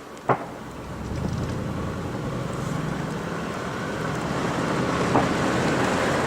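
Vehicle engine and road noise from a car driving, a steady hum that grows louder about a second in, with two short sharp knocks about five seconds apart.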